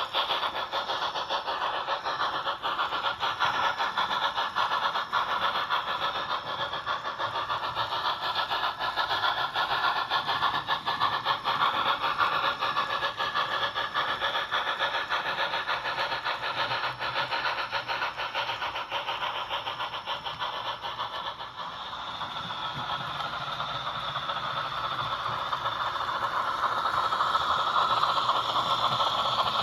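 Rivarossi HO scale steam locomotive's old high-torque motor and gearing running with a busy rattling whir; it is not running smoothly. It eases off briefly about two-thirds of the way through, then picks up and grows louder.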